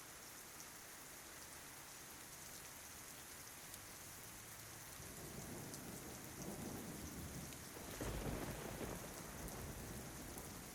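Steady rain falling, with scattered drop ticks. About halfway through, a low roll of thunder builds in, swells to its loudest a little before the end, then eases off.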